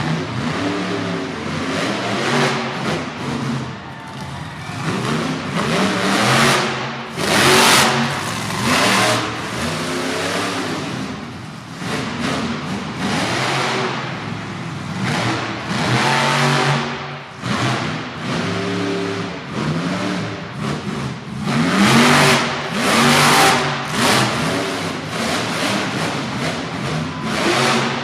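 Monster truck engine revving hard and easing off again and again, with its loudest full-throttle surges about seven seconds in and again past twenty seconds.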